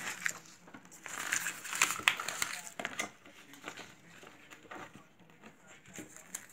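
Paper crinkling and rustling as a cut-out paper tree is folded and creased by hand, loudest about one to two and a half seconds in, then fainter scattered rustles.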